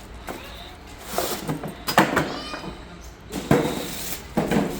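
Handling noises from exhaust parts and their packaging: a few knocks and clacks, with a short squeak about two seconds in.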